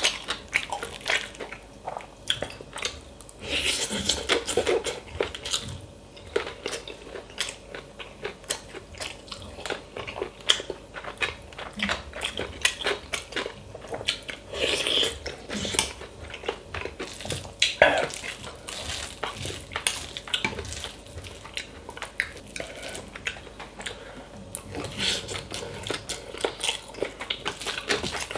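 Close-miked eating of bibimbap: steady chewing and crunching, with many small clicks and knocks of cutlery against a bowl.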